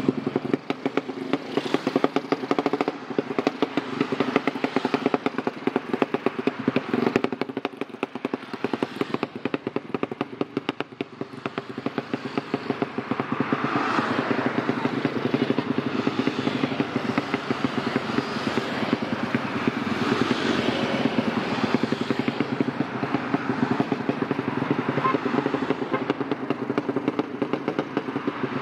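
Tuned race motorcycle engine running with a fast, even firing pulse; it gets louder about twelve seconds in and holds there.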